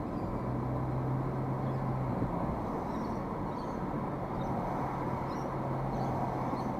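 Steady road and engine noise inside a moving car's cabin, with a low even hum underneath.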